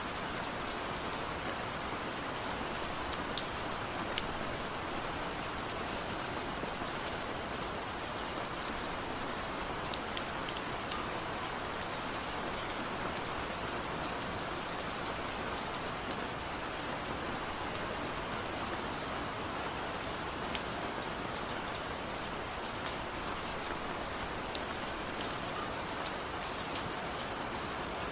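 Steady rain falling, with many distinct drops ticking on nearby surfaces over an even hiss.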